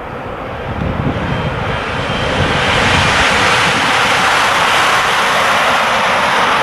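A train passing at speed: a rushing noise that swells over the first three seconds, then holds steady and loud.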